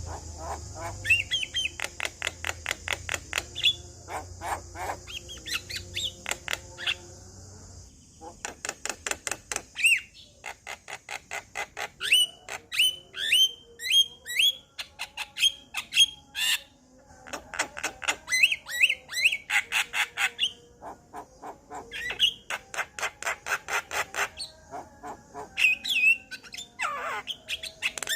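Male Javan myna (jalak kebo) singing: fast runs of sharp clicking notes mixed with short rising whistles, in repeated bursts with brief pauses between them.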